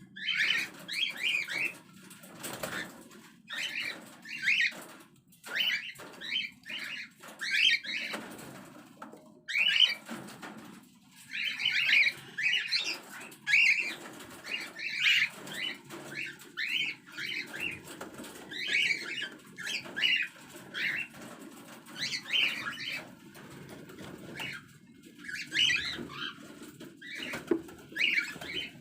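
Cockatiels chirping, short calls repeated again and again.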